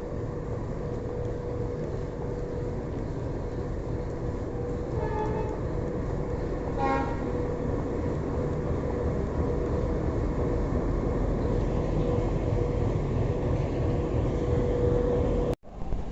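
Train running on the rails with a steady rumble and a faint steady hum, and two short horn toots about five and seven seconds in. The sound cuts out abruptly near the end.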